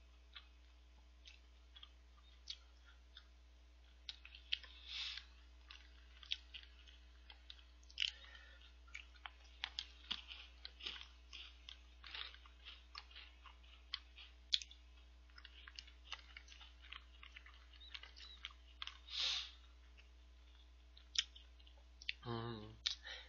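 Close-miked chewing and crunching of chocolate star-shaped snack puffs eaten from milk like cereal, with many scattered sharp clicks of a spoon against a plastic cup. A short hum from the eater near the end.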